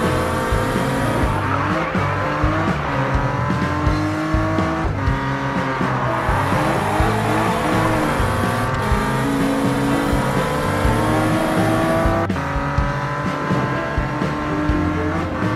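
Upbeat cartoon background music with a stepping bass line, overlaid with cartoon sports-car sound effects: engine and tyre noise swelling as cars pass, about two seconds in and again around six seconds.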